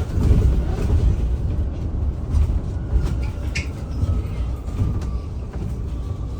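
Cabin noise of a BYD B12 battery-electric bus on the move: a low road and tyre rumble with rattles and knocks, and a faint steady high whine.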